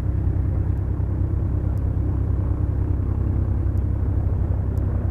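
Twin engines of a Beechcraft Duchess, two four-cylinder Lycoming piston engines, running steadily as a deep, even cabin drone.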